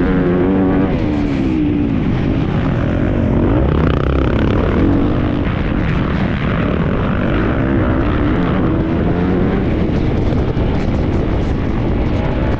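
Motocross bike engine revving hard, its pitch rising and falling again and again as it accelerates and backs off.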